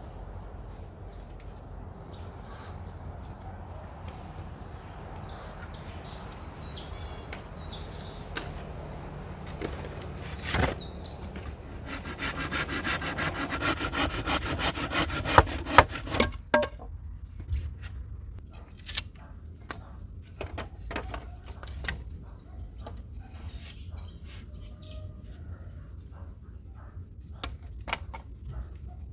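Wood being cut with a hand saw: a few seconds of quick, steady sawing in the middle, with scattered sharp knocks and cracks of wood being handled before and after.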